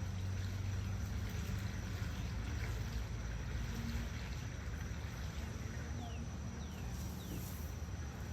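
Steady low outdoor hum with three quick falling chirps about six to seven seconds in.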